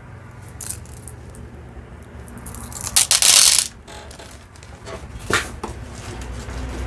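Beads and small jewelry pieces being handled: scattered light clicks, and a loud clattering rustle lasting under a second about three seconds in.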